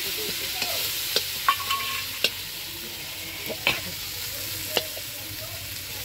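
Onion, tomato and green chilli spice base sizzling in oil in a metal kadai while it is stirred with a metal spatula, which scrapes and clinks against the pan about once a second. A brief ringing note comes from the pan about a second and a half in. This is the masala being fried down for a fish curry.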